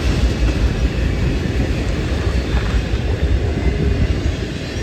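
Railroad train, a steady low rumble.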